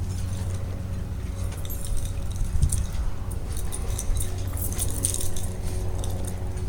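Steady low machine hum, with light metallic clinking and jingling in the middle.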